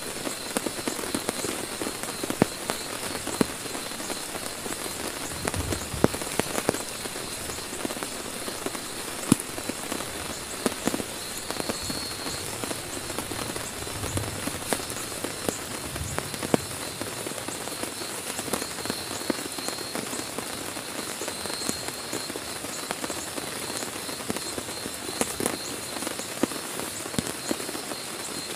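Heavy rain drumming on a tent, a steady hiss with many sharp individual drop hits on the fabric.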